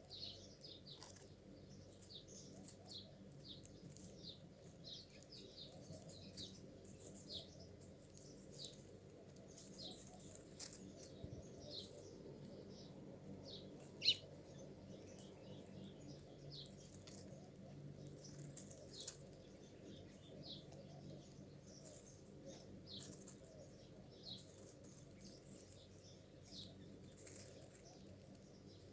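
Small birds chirping: short, high, quick chirps repeated every second or so, one much louder about halfway, over a faint steady low hum.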